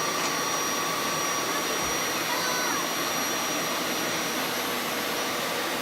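Hoover upright carpet shampooer running steadily, its suction motor whining with a constant hiss while the trigger is held to spray cleaning solution onto the carpet.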